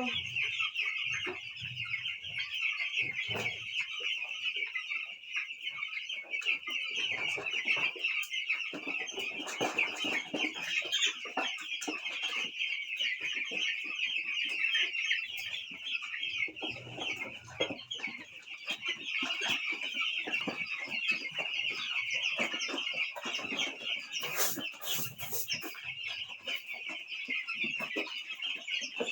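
A flock of twelve-day-old chicks peeping nonstop in a dense, high-pitched chorus.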